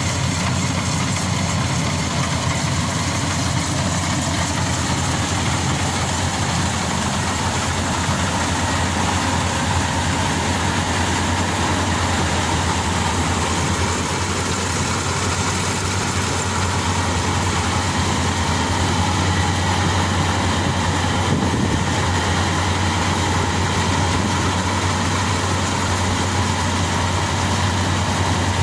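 Maxxi Bimo Xtreme combine harvester's engine running steadily at constant speed, with a deep, even hum.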